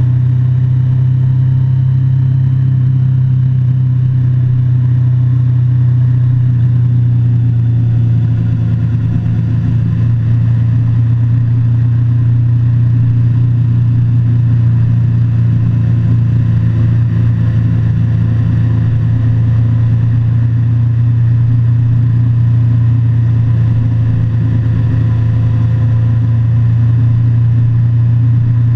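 Motorcycle engine running at a steady cruising speed, a loud, even drone.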